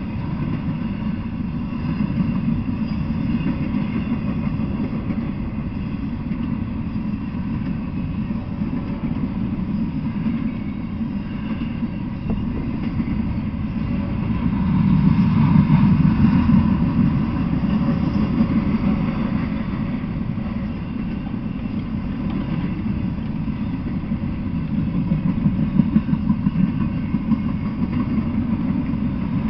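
Freight train of empty intermodal well cars rolling past, a steady low rumble of steel wheels on rail that swells louder about halfway through and again near the end.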